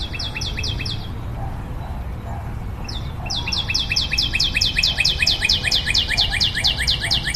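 A bird calling in quick series of high, downward-sliding chirps: a short run of about five in the first second, then after a pause a long run at about five a second. A steady low background noise lies under it.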